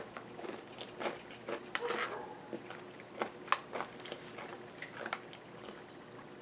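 Close-up chewing and crunching of granola with yogurt, mixed with a metal spoon scraping and clicking against the bowl; small, irregular crunches and clicks.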